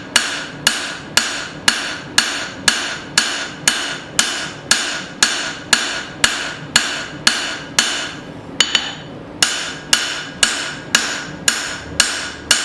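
A 2-pound hand hammer striking a hot mild-steel bar on an anvil in an even rhythm, about two blows a second, each followed by a brief metallic ring, with a short pause about three-quarters of the way through. The blows are thinning out the middle of the bar where the axe eye will be wrapped.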